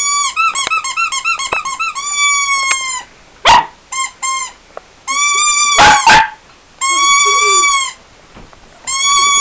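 A squeaky toy squeezed again and again: a quick run of short squeaks, then several long, steady squeaks. A dog barks sharply about three and a half seconds in and again around six seconds.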